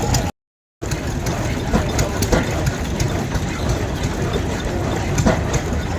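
A vintage engine running at idle, a steady rumble with irregular sharp knocks. The sound cuts out completely for about half a second near the start.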